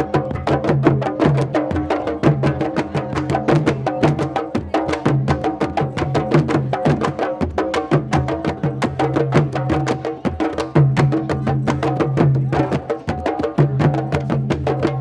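Candombe drumming: a group of hand-and-stick drums playing a dense, steady rhythm of sharp strikes over low drum tones.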